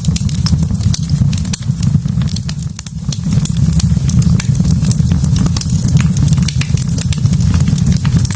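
Wood logs burning in a fireplace, crackling with frequent sharp pops over a steady low rumble.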